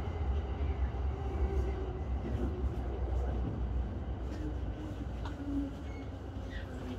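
Electric commuter train running slowly along a station platform, heard from the driver's cab: a steady low rumble with faint wavering motor tones, growing gradually quieter as it slows.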